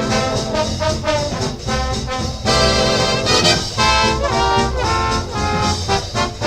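Fast swing jazz from a big band, with trumpets and trombones playing an instrumental passage at a balboa dance tempo.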